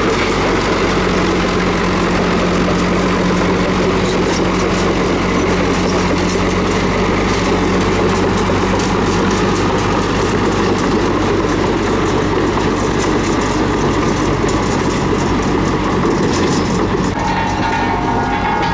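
Komatsu D31P crawler bulldozer working: its diesel engine runs steadily under the rattling and clanking of the steel tracks. A higher steady tone joins near the end.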